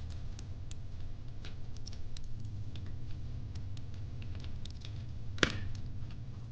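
Wood fire in a fire pit crackling: irregular small pops and snaps, with one sharper pop about five seconds in, over a low steady rumble.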